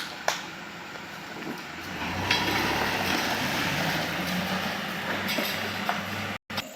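Canter truck moving forward: a low engine hum under a broad rattling, clanking noise that swells about two seconds in, with a few sharp knocks. The sound cuts out abruptly near the end.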